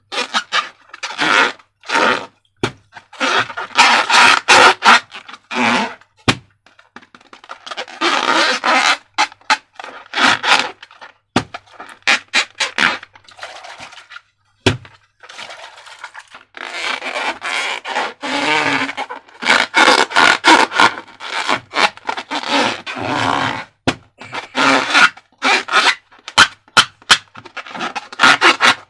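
Slime and plastic balloons being handled, squeezed and worked, in irregular bursts a second or two long of crackling, sticky squishing and scraping, broken by many sharp clicks.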